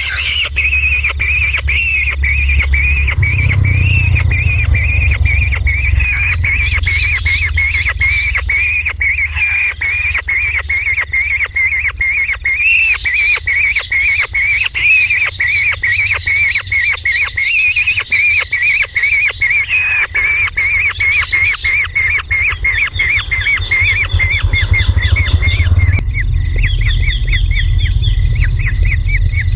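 A bird calling in a fast, even series of chirps that runs on without a break, over a steady high insect-like whine and a low rumble.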